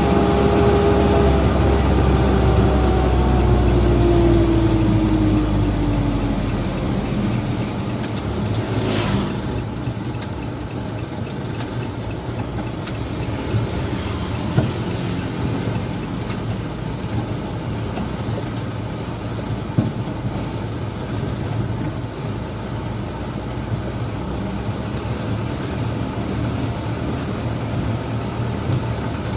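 Dump truck engine running. Over the first six seconds its pitch falls and the deep rumble fades as the revs drop, then it runs steadily, with a couple of brief knocks in the middle.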